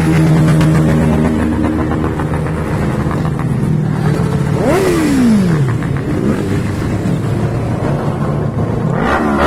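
Motorcycle engines running and revving. About four and a half seconds in, one engine note climbs quickly and then falls away over about a second, and another rev climbs near the end.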